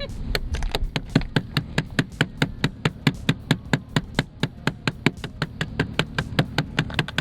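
Rapid, even tapping, about five knocks a second, of a hard tool chipping at the ice crusted on a frozen car.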